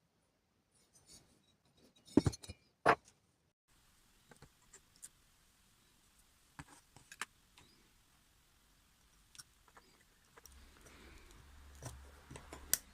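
Two sharp knocks about two and three seconds in, then scattered faint clicks and clinks of small hard objects being handled. A low hum comes in near the end.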